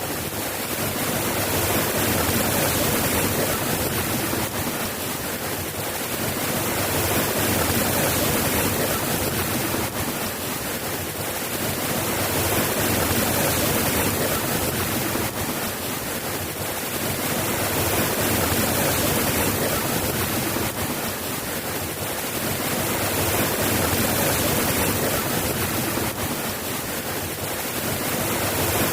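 Steady rain falling, a dense even hiss that swells and eases gently every few seconds.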